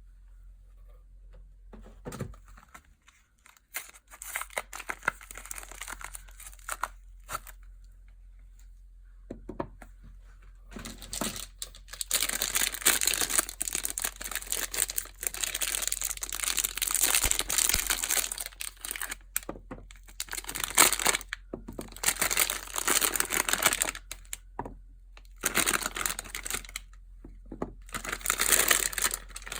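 Soap packaging being unwrapped by hand: wrappers crinkled and torn open in irregular bursts. The crinkling is sparse at first, then dense and loud from about a third of the way in, with a short break near the end.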